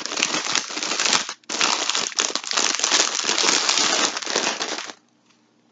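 Plastic yarn packaging crinkling as it is handled, in two long stretches with a brief break about a second and a half in, stopping about a second before the end.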